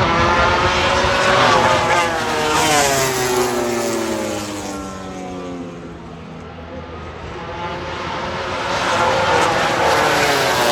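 MotoGP racing motorcycles at speed, engines wailing: one passes with its engine note falling in pitch and fading, then another approaches with the note rising and growing louder near the end.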